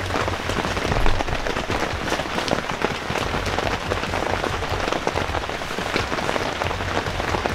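Heavy rain falling steadily, with many separate drops ticking close to the microphone.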